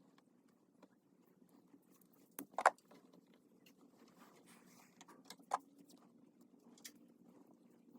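A few sharp knocks and clicks with a short ring, the loudest a quick double knock about two and a half seconds in, others near the middle and later, over a faint steady hum.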